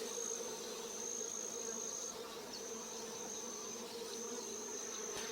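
A honeybee swarm buzzing as a steady, even hum, with a thin high-pitched steady whine above it that breaks off briefly a few times.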